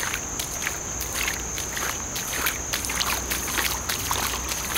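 Footsteps wading through shallow floodwater over a road, a slosh and splash with each step at a walking pace.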